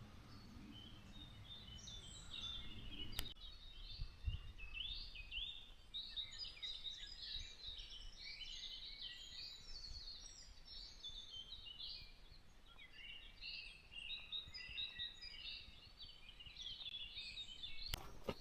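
Songbirds singing in a forest, many short chirps and trills overlapping throughout. A few footsteps start near the end.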